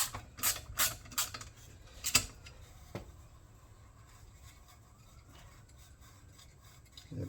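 Hand tools and metal engine parts being handled on a workbench: about six sharp metallic clicks and clinks over the first three seconds, the loudest a little after two seconds in, then only faint background.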